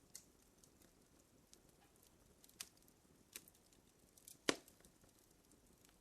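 Fire crackling: scattered faint pops and snaps over a low hiss, with one sharper pop about four and a half seconds in.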